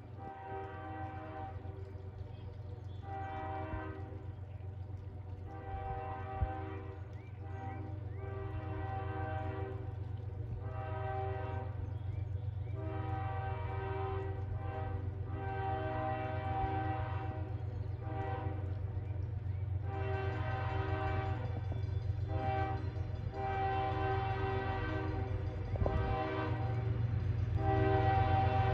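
Diesel freight locomotive horn sounding a long series of blasts, each about a second or two, over the steady low rumble of the engine. The train is getting gradually louder as it approaches.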